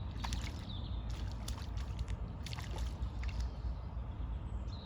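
Small irregular splashes and trickling water from a hooked roach being played in at the surface, over a steady low rumble.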